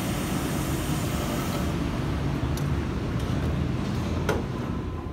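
Sydney Trains double-deck electric train running beside the platform, a steady low rumble with a few sharp clicks, the loudest about four seconds in.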